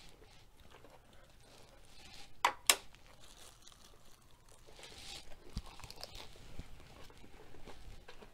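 A metal fork is set down on a serving tray with two sharp clicks about two and a half seconds in. From about five seconds on there is crunchy chewing of a lettuce wrap.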